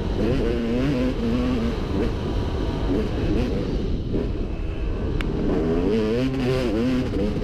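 Dirt bike engine under way, its pitch rising and falling repeatedly as the throttle is worked and the engine revs up and drops back.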